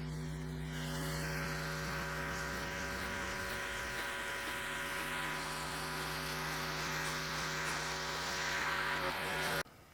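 Pressure washer running steadily, its motor droning under the hiss of the water jet spraying the siding and gutter; it cuts off suddenly near the end.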